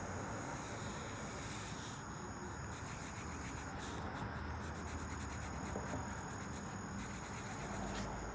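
Drawing on sketchbook paper: a steady, scratchy rubbing of the drawing tool across the page. Behind it is a faint, steady high insect trill.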